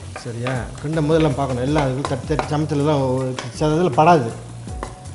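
Chicken in a thick tomato masala frying and being stirred in a wok with a wooden spatula, sizzling. A singing voice with a wavering pitch sounds louder over it.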